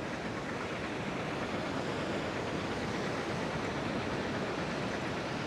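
Steady wash of ocean surf on a beach, an even rushing noise with no distinct breaks.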